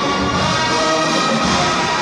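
A marching band playing loudly: brass holding sustained chords over drum hits.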